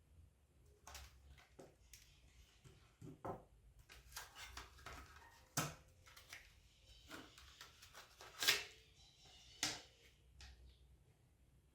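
Faint, irregular clicks, taps and scrapes of small metal and plastic laptop parts being handled while the hard drive is detached and unscrewed, with three sharper clicks standing out in the second half.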